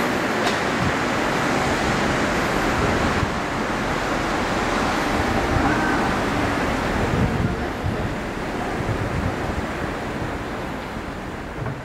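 Kumoya 443 series electric inspection train pulling away along the track, its running noise a steady rumble that slowly fades as it draws off from about seven seconds in.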